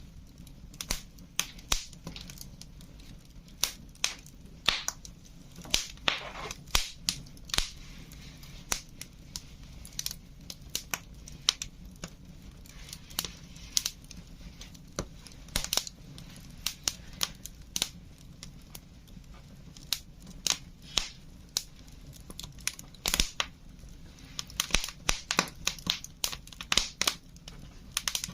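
Wood fire crackling: irregular sharp pops and snaps, a few louder cracks among them, over a faint low hum, with a brief hiss about six seconds in.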